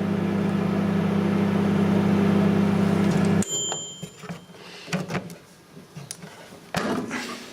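Microwave oven running with a steady hum while electrolytic capacitors arc inside it, cutting off abruptly about three and a half seconds in with a short high beep. A few clicks and knocks follow.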